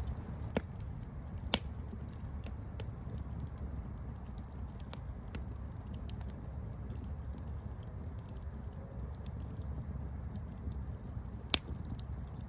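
Campfire crackling: a steady low rumble of burning wood with scattered small ticks and a few sharp pops, the loudest about a second and a half in and another near the end.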